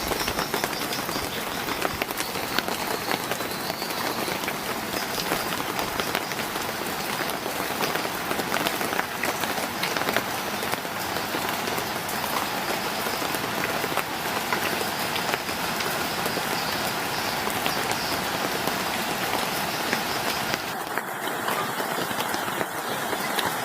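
Heavy rain falling: a dense, steady hiss made of countless small drop impacts.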